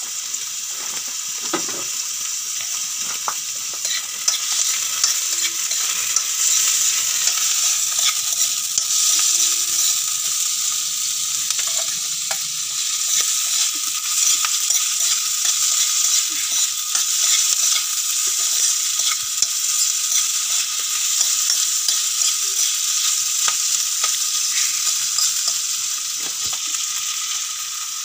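Chopped onion sizzling steadily in hot oil in a small metal wok, stirred by hand with frequent light scraping ticks against the pan.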